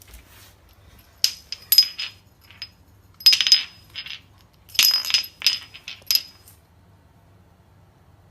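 Small hard objects clinking and rattling with a bright metallic or glassy ring, in several quick clusters over about five seconds, then stopping.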